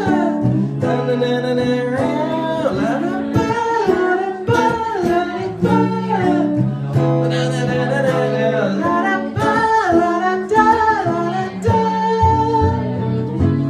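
A song: a voice singing a wordless 'la-da-da' refrain over guitar accompaniment.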